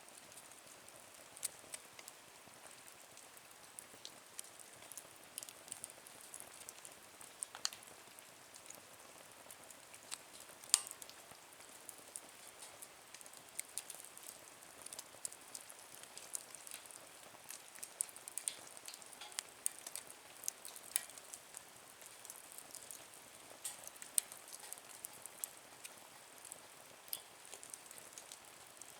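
Small wood fire burning in a compact nature stove: faint irregular crackles and pops over a soft hiss.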